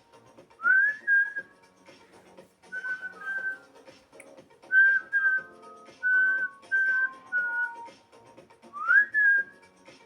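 Ocarina playing a melodic hook by ear, in short phrases of clear, high, whistle-like notes, several starting with an upward slide, over faint recorded pop backing.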